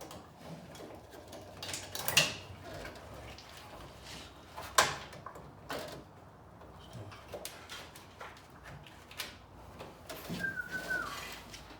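Scattered clicks and knocks of hand work in a car's engine bay, with two sharper knocks about two and five seconds in, and a short falling squeak near the end.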